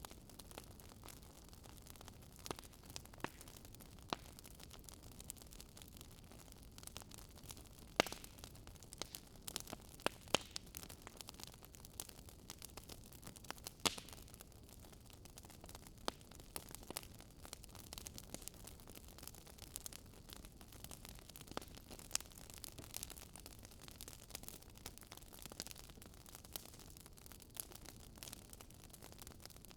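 Wood fire in a fireplace crackling: irregular sharp pops and snaps over a low steady hiss, with a few louder pops around the middle.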